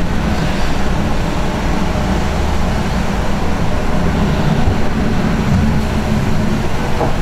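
Ford E-350 step van's engine idling: a steady low rumble with a hiss over it, unchanging throughout.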